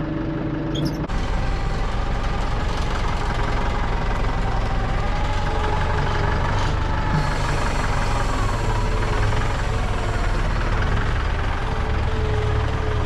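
Kubota tractor's diesel engine running steadily, with a slowly wavering whine over it; the sound changes abruptly about a second in.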